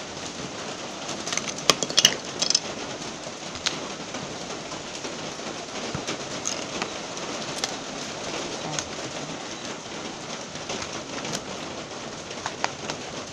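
Steady rain falling, an even hiss, with a few sharp taps of drops or knocks about two seconds in.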